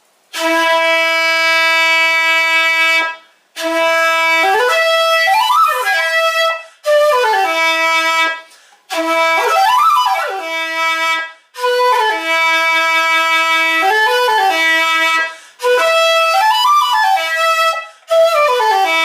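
Shakuhachi playing a slow passage in seven short phrases, with brief breaths between them. Each phrase opens on a long held low note, then climbs and falls back in a quick run.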